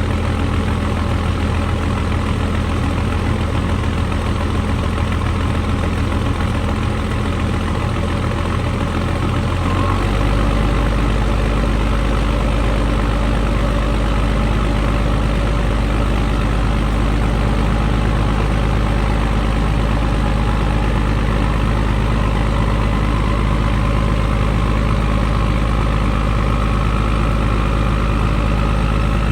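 M35A2 deuce-and-a-half's turbocharged multifuel inline-six diesel idling cold, just after a cold start in freezing weather. About ten seconds in the idle drops to a lower, deeper note, and a faint whine rises slowly in pitch near the end.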